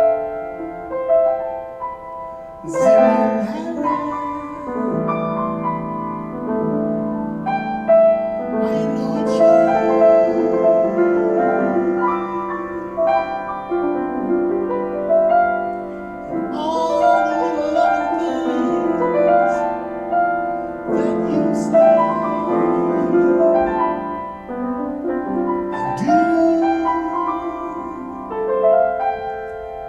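Piano music: held chords and notes struck one after another at a slow pace, each left ringing into the next.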